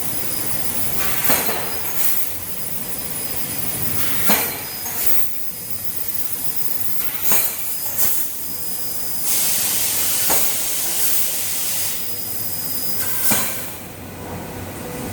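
Industrial laser cutting machine cutting metal: a steady high hiss with sharp pops every few seconds, and a louder stretch of hiss about nine seconds in.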